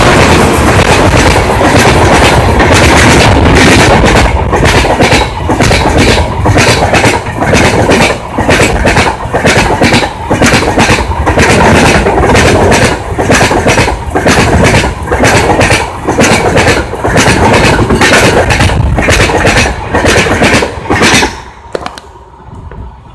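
Passenger express coaches passing close at high speed: a loud rush of wheels on rail with a rapid, regular clickety-clack as the wheelsets cross rail joints. About 21 seconds in the last coach goes by and the noise drops away sharply to a fading rumble.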